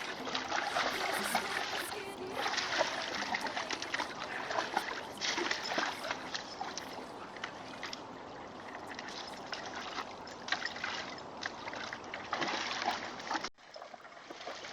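Water splashing and trickling, an uneven rushing with small irregular splashes, cutting off suddenly near the end.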